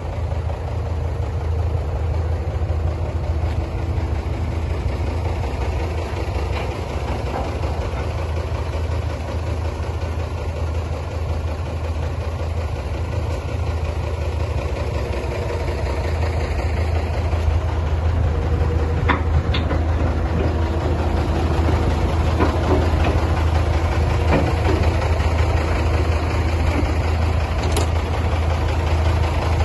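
MAN F2000 19.322 truck's six-cylinder diesel engine idling steadily, with a few short clicks over it about two-thirds of the way in.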